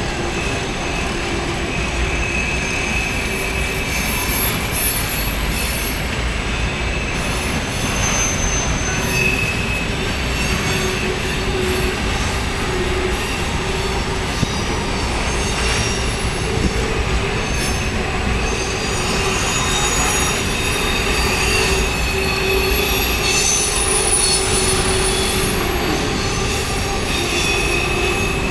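Empty coal hopper cars rolling past on the rails, with a steady run of noise and wheel squeal: thin high-pitched squealing tones that shift and come and go throughout.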